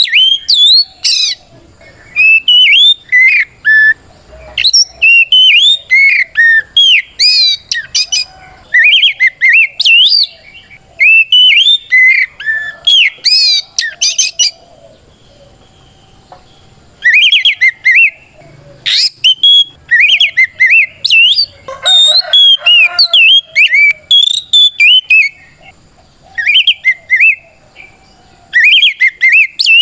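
Oriental magpie-robin singing in its loud, full-voiced 'ngeplong' challenge song, fast runs of varied whistled and chattering phrases that call out a rival bird. The song breaks off briefly twice, once around the middle and once near the end.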